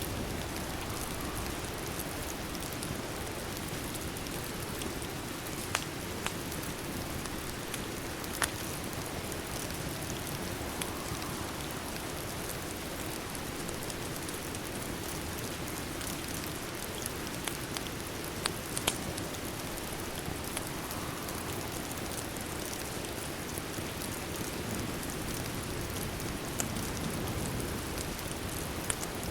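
Steady, even rain mixed with a wood fire that crackles a few times with sharp pops.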